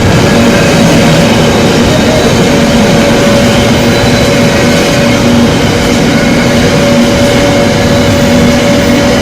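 Container freight train hauled by Class 66 diesel 66712 running through the station: a loud, steady rumble with a steady hum in it.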